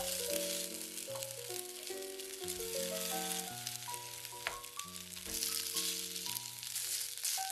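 Grated potato, carrot and onion fritters sizzling in oil in a nonstick frying pan as they are turned with a wooden spatula, under background music with a steady melody.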